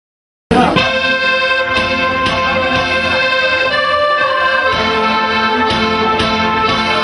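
Accordion playing a melody, starting suddenly about half a second in and continuing steadily.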